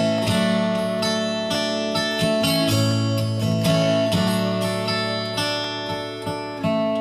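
Acoustic guitar strummed, playing an instrumental passage of chords that change every second or so.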